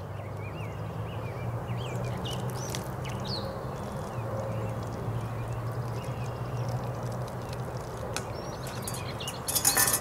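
Small birds chirping over a low steady hum. Near the end, a brief loud clatter as the small metal pot is set down on the log.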